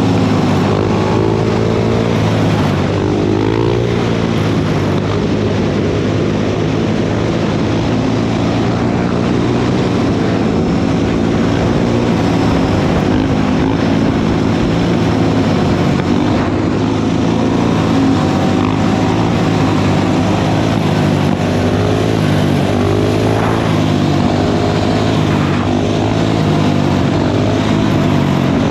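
Dirt bike engines running together in a group ride, a steady drone with revs rising and falling a few seconds in and again near the end.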